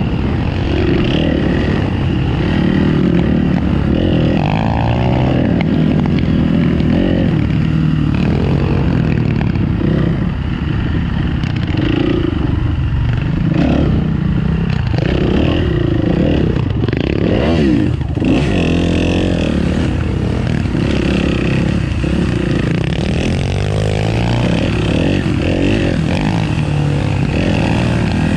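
Motorcycle engine running, its pitch rising and falling several times as it is revved up and down.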